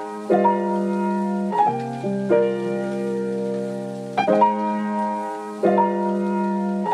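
Instrumental music break: slow piano chords, a new chord struck about every second and a half and left to ring, with no singing.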